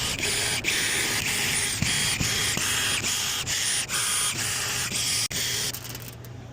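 Power screwdriver backing screws out of a rooftop HVAC unit's access panel, heard as a quick run of short bursts, two or three a second, chopped off sharply one after another. The bursts stop about five and a half seconds in, leaving a steady low hum.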